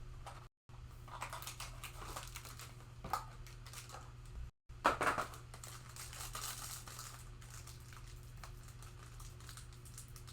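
Plastic trading-card pack wrapper crinkling and tearing as it is worked open by hand, in irregular bursts.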